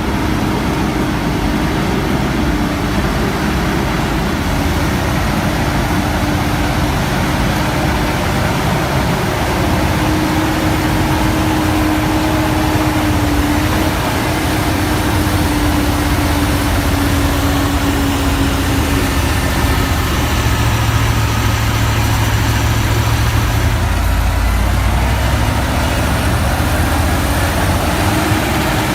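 Heavy truck's diesel engine running steadily, with a whine that wavers slightly in pitch through the middle.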